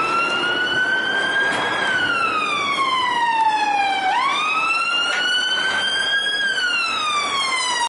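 Toy fire truck's electronic siren wailing: a single tone that rises briefly, glides down for a couple of seconds, jumps back up about four seconds in, then rises and glides down again over a steady hiss. It cuts off suddenly at the end.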